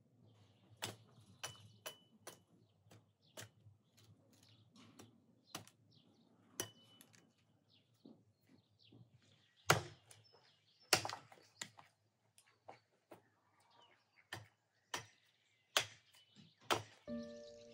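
A knife chopping on a wooden board in irregular, sharp strokes, with birds chirping faintly. Music comes in near the end.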